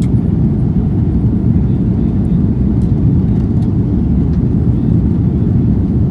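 Airliner cabin noise during takeoff: a loud, steady low rumble of the jet engines and airflow heard from inside the passenger cabin.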